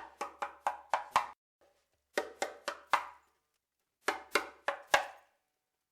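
A drum struck in three quick runs of about four to six sharp strikes each, with short pauses between them; each hit rings briefly.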